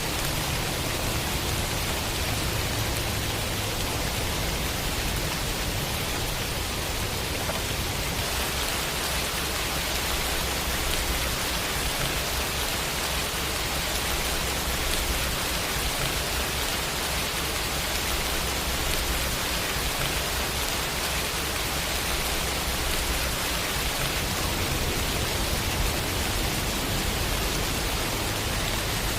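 Steady heavy rain: an even hiss of rainfall over a low rumble.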